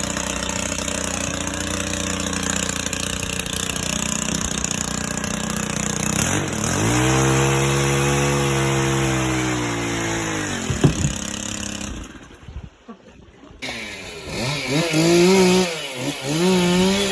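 Gas chainsaw running hard as storm-downed trees are cut up, its engine pitch rising to full throttle, holding, then falling back about halfway through. After a short break it revs again, its pitch wavering up and down as it bogs and recovers under load.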